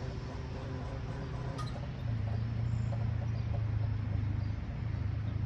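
A steady low engine drone that grows louder about two seconds in, with a short click about one and a half seconds in.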